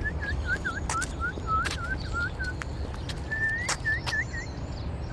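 A bird calling a rapid series of short, repeated chirping notes, about three a second. After a brief pause it gives a longer rising note and a few more chirps. A steady low rumble and scattered sharp clicks run underneath.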